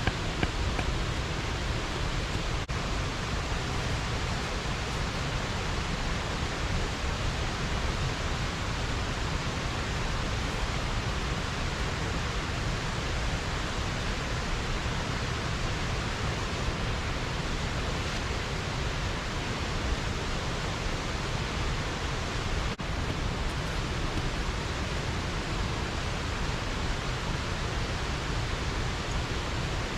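Steady rush of water pouring over a small weir on a mountain stream.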